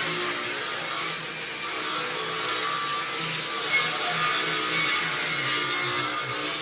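A tool working wood: a continuous cutting or abrading noise that holds steady throughout.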